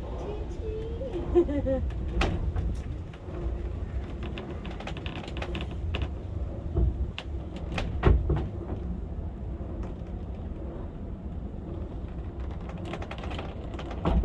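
Electric funicular cliff railway car running down its track: a steady low rumble with scattered clicks and knocks, a few of them louder.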